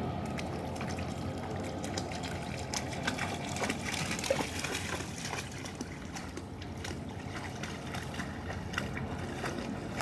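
Water trickling and splashing in small, irregular ticks over a steady low rumble.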